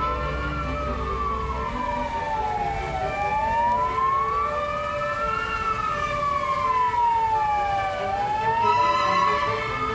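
Emergency vehicle siren in a slow wail, its pitch rising and falling in a cycle of about five seconds, twice through.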